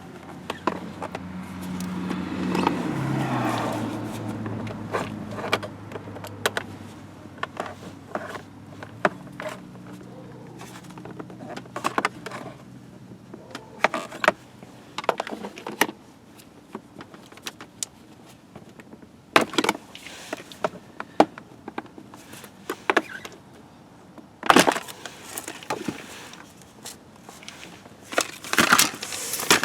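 An electric fan motor, the car's heater blower, hums and then winds down, its pitch dropping a few seconds in and fading out. Scattered sharp clicks and knocks of hand work on parts follow.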